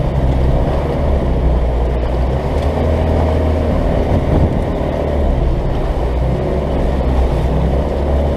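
Off-road 4x4's turbo diesel engine labouring steadily under heavy load, heard from inside the cab, as the truck struggles through slippery mud.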